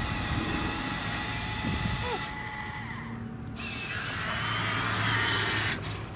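Small electric motor and plastic gears of a Huina 1573 radio-controlled dump truck whirring with a whine. It gets louder about four seconds in and cuts off suddenly just before the end.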